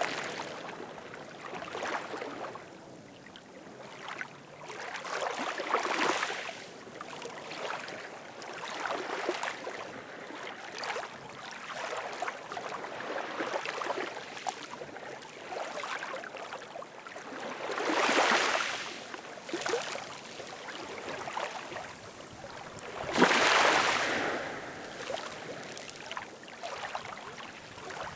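Ocean surf: a continuous hiss of waves swelling and fading every few seconds, with two larger waves breaking in the last third.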